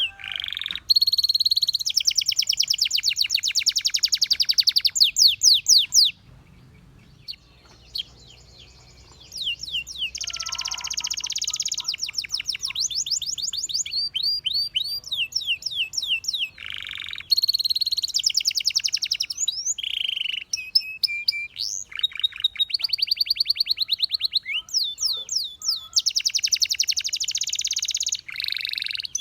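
Domestic canary singing: long, fast trills of rapidly repeated high notes, passing from one trill to the next, with a pause of about three seconds a few seconds in.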